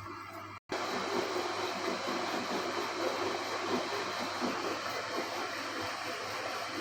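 Front-loading washing machine running with its newly replaced drive belt, giving a steady rushing, water-like noise that starts after a brief cut less than a second in.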